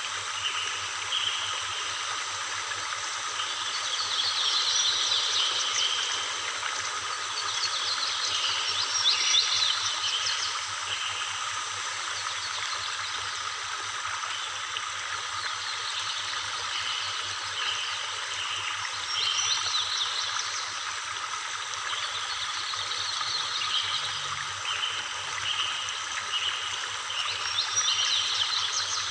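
Steady rush of a waterfall, with repeated high chirping calls over it that come in several louder groups.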